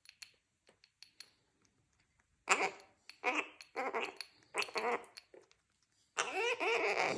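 Young gang-gang cockatoo chattering: a few faint clicks, then a string of short calls about half a second each, ending in a longer call of about a second.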